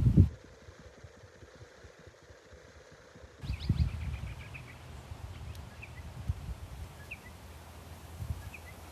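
Wind buffeting the microphone in gusts, loudest at the very start and again about three and a half seconds in. A small bird chirps several times, with one quick trill.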